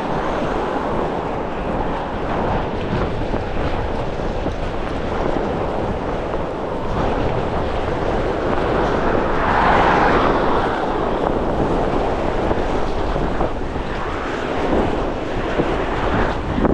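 Strong gusty wind buffeting the microphone: a heavy, steady rumble with rushing noise, which swells about ten seconds in.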